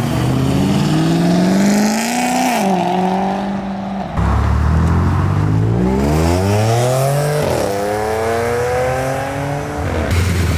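A car accelerating hard, its engine pitch climbing and then dropping at an upshift. A second, louder pull starts about four seconds in and climbs to another shift.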